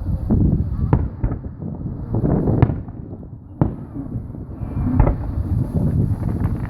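Fireworks bursting overhead: a continual low rumble of booms with sharp cracks about a second in, near two and a half and three and a half seconds, and again around five seconds, with wind buffeting the microphone.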